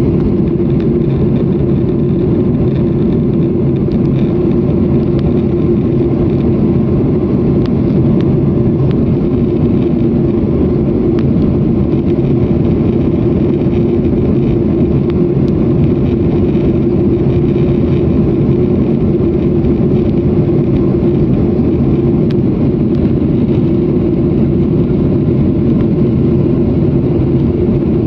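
Steady engine and airflow noise of an airliner heard from inside the passenger cabin in flight, a loud even drone with a steady hum running through it.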